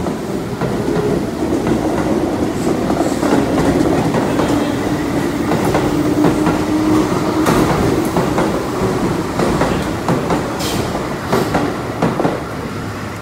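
Keihan electric commuter train pulling out of the station past the platform, a low motor hum rising slightly as it picks up speed, with wheels clicking over the rail joints. The clicks grow sharper and more spread out near the end as the last cars go by.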